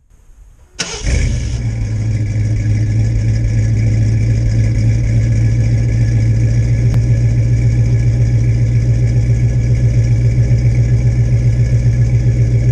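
1985 Ford Bronco II's 5.0 V8 idling, heard at its dual tailpipes. The sound comes in abruptly about a second in, then runs steadily with an even pulse in the exhaust. The engine is in good running order.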